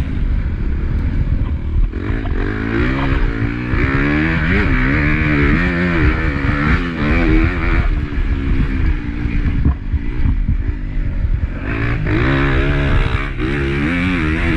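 Honda CRF250 four-stroke single-cylinder motocross engine under race load, its pitch repeatedly climbing and dropping as the throttle is opened and shut. The revs dip briefly about two seconds in and again around eight to ten seconds in.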